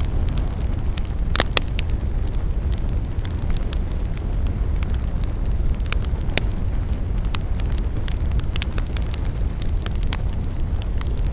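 Fire burning in a fireplace: a steady low rumble with frequent sharp crackles and pops at irregular intervals, a few of the loudest snaps about a second and a half in.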